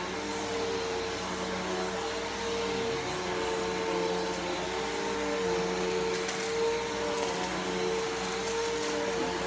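Bissell PowerForce Helix Turbo upright vacuum running steadily while vacuuming a rug, an even motor hum with a steady whine over the rush of air. A few faint ticks come in the second half.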